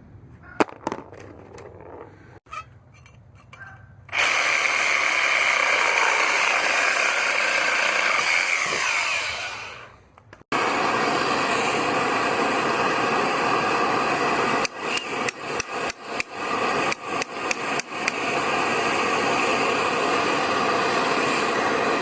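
A few light clicks, then a handheld power tool running loudly and steadily, winding down just before ten seconds in. It starts again straight away, cuts in and out rapidly several times for a few seconds, then runs steadily on.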